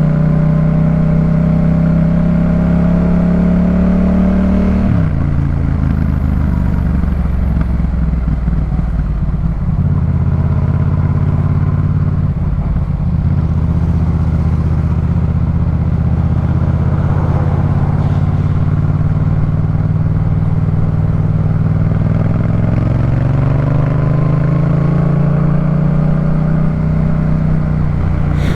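Yamaha MT-07's 689 cc parallel-twin engine running through a Jeskap K4 full exhaust system while being ridden. The revs climb, drop sharply about five seconds in, hold steady for a long stretch, then climb again near the end.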